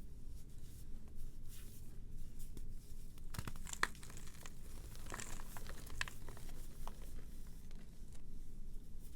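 Brittle material being crumbled and crushed by hand, giving irregular crackles and small cracks, with a louder cluster of sharp cracks about three and a half seconds in and another around five to six seconds.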